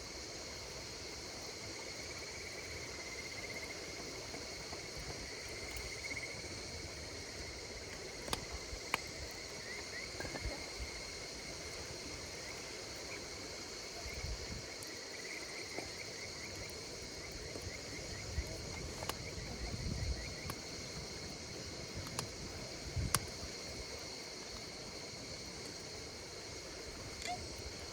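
A steady chorus of insects chirping, with a trilling call weaving in and out. Now and then a campfire gives a sharp crackle or pop, a handful of times.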